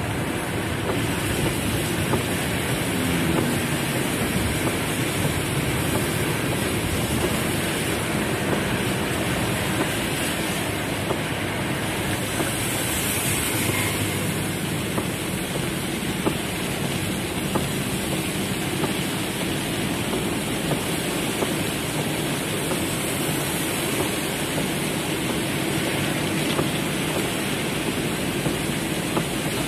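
Heavy rain drumming on a car's roof and windows, heard from inside the cabin: a steady, dense downpour with many small drop ticks.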